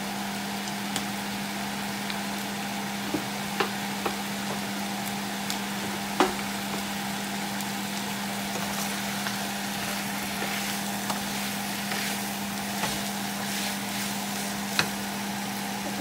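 Chicken wings sizzling as they fry in a nonstick pan with onions and garlic, a steady hiss with occasional sharp clicks, the loudest about six seconds in. A steady hum runs underneath.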